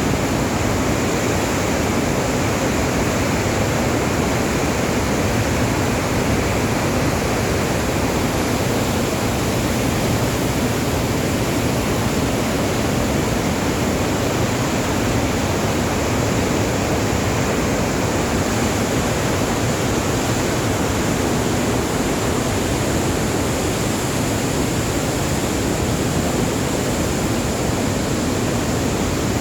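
Water released from a dam, rushing steadily and loudly without a break.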